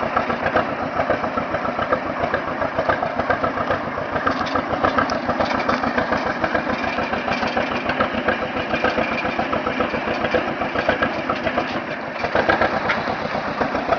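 Small engine running steadily, its firing heard as a fast, even pulse; it gets a little louder about twelve seconds in.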